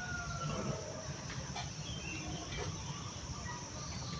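Countryside ambience: small birds chirping faintly and sporadically over a steady high-pitched hiss and a low rumble.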